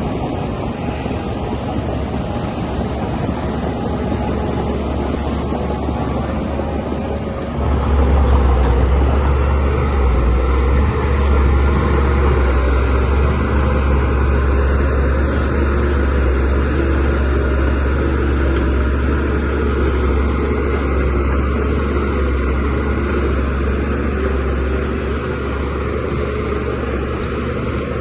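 Shantui DH17C3Pro bulldozer's diesel engine running steadily. It gets louder about eight seconds in and eases back a little near the end.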